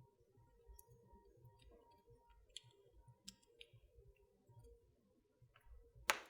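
Wood fire in a fireplace crackling softly, with scattered small snaps over a low rumble and one loud pop near the end.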